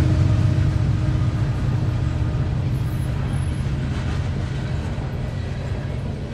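Diesel freight train passing: a deep, steady rumble of the locomotives and rolling cars that slowly fades. The faint held note of the train horn dies away about halfway through.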